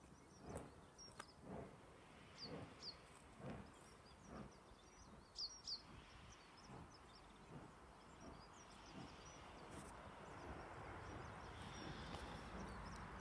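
Faint outdoor quiet with small birds chirping in short, quick falling notes, a close pair about five and a half seconds in. Under them come soft dull thuds about once a second that die away, and a faint hiss that grows toward the end.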